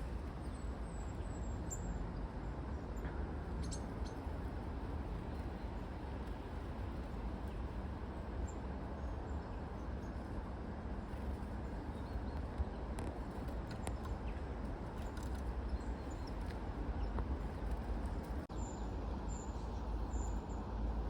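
Tits giving short, faint, high calls every few seconds, over a steady low outdoor rumble.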